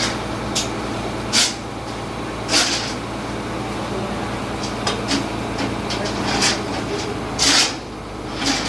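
An engine running steadily, with short sharp hisses at irregular intervals, about eight of them, the loudest near the end, while a machine is being lowered off.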